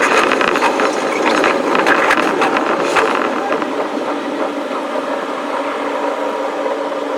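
A Shonan-Shinjuku Line electric train's running noise, fast-forwarded. There is a dense rapid clatter of wheels over rail joints and points for about the first three seconds, then a smoother steady rumble with a faint hum.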